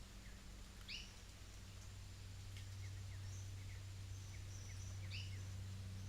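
Birds calling: a sharp two-part call about a second in and again near the end, short chirps in between, and a brief high whistle in the middle. Under them runs a steady low hum.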